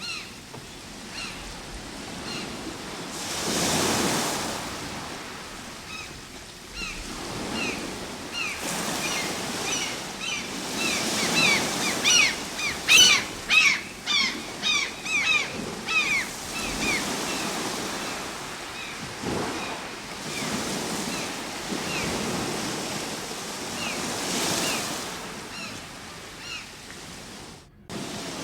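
Ocean surf washing in and out, swelling in a few slow surges, with many short high chirps from birds scattered over it, crowding into a quick flurry midway. The sound drops out briefly near the end.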